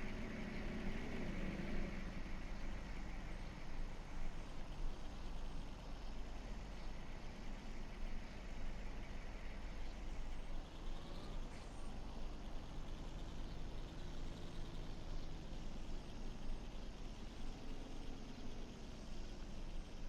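Truck engines running and passing, their pitch rising and falling, over a steady low rumble.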